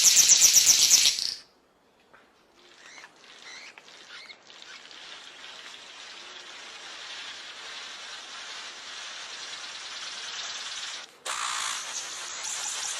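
King of Saxony bird-of-paradise calling: a loud, hissing, fast-pulsing buzz like radio static that cuts off abruptly about a second in. Faint scattered bird calls over a steady forest hiss follow, with louder calls again near the end.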